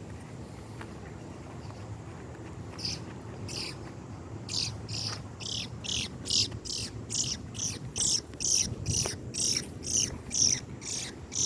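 A bird calling with short, high chirps, a couple at first and then a steady run of about two a second from about four seconds in.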